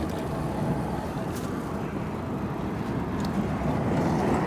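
Steady low rumbling wind and road noise during an e-bike ride, with no distinct events.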